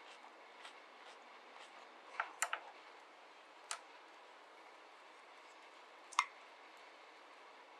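A few light clicks and taps over a faint steady hiss: a quick cluster about two seconds in, a single click near four seconds, and a sharper, louder click past six seconds.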